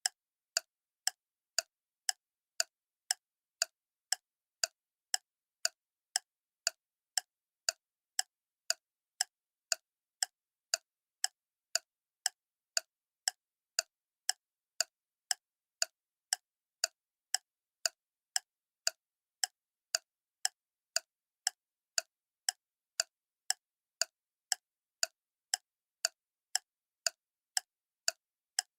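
Clock ticking steadily, about two sharp, even ticks a second with dead silence between them.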